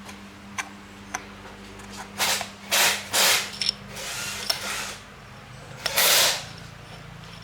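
Power tool in a motorbike workshop running with a steady hum, broken by a few sharp clicks and several short bursts of hissing noise.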